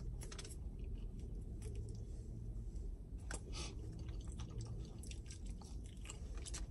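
A person chewing fried chicken wings close to the microphone: short, irregular mouth clicks and smacks. A low steady hum runs beneath.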